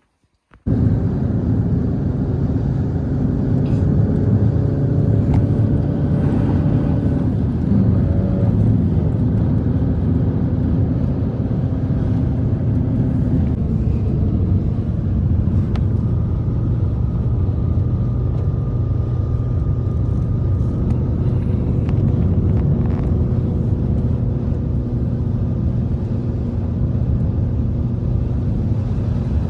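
Strong blizzard wind blowing steadily as a deep rumble, with faint whistling tones over it. It starts abruptly just under a second in.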